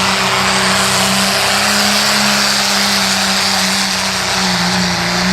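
A pulling vehicle's engine running hard at high revs under load as it drags the weight-transfer sled down the pull track. It drones steadily, easing slightly about four seconds in and then picking up again.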